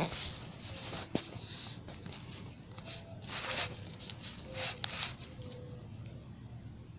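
Rustling and rubbing noises in a few short bursts, with a sharp click about a second in.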